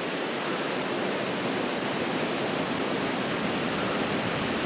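Water pouring steadily over a small canal waterfall, a continuous rushing that grows slightly louder.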